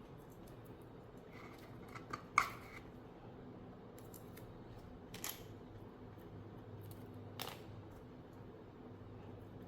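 A few small sharp clicks and snips of hobby tools and small plastic model parts being handled, over a low steady hum. The loudest click comes in a quick cluster about two seconds in, with two more single clicks later.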